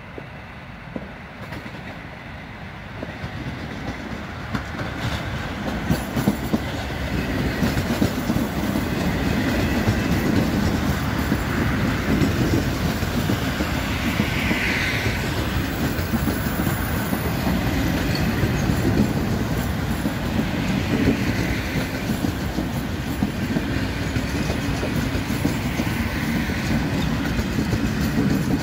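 A train drawing near and then rolling past close by, its wheels clattering over the rail joints, growing louder over the first several seconds and then holding steady, with a brief wheel squeal about halfway through.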